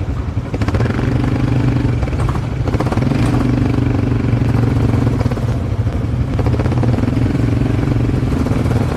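ATV engine running while being ridden: a steady low rumble whose pitch rises and falls slightly with the throttle.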